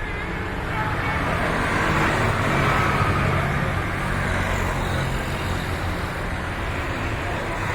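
A road vehicle passing by, its noise swelling and fading, loudest about two to three seconds in.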